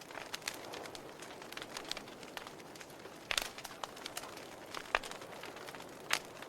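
Wood fire in a fireplace crackling steadily, with rapid small snaps and a few louder pops in the second half.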